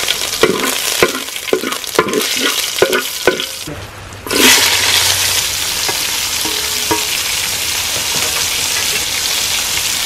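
Mustard seeds and curry leaves crackling and popping in hot coconut oil in a metal pot. About four seconds in, sliced onions go into the oil and a loud, steady sizzle takes over.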